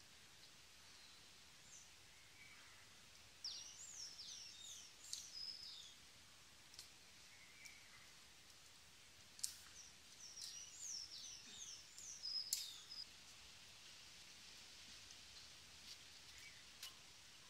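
A small wild bird singing two quick phrases of high, rapidly repeated downward-sweeping notes, a few seconds apart, over a quiet outdoor background.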